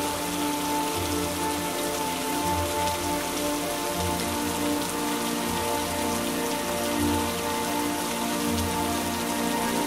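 Steady heavy rain, with soft music of long held notes underneath.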